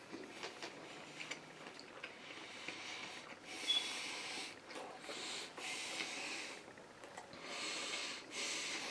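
A man chewing a mouthful of chicken sandwich with his mouth closed, giving small wet clicks. From about a third of the way in he breathes heavily through his nose while chewing, several long noisy breaths about a second apart.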